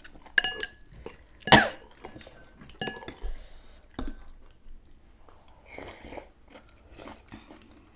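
People eating noodle soup: chewing, with utensils clinking against bowls several times, the loudest knock about a second and a half in.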